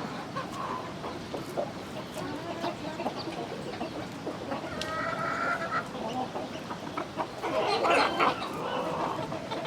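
Flock of chickens clucking continuously, with one drawn-out pitched hen call about five seconds in and a louder burst of overlapping squawks and clucks near the end.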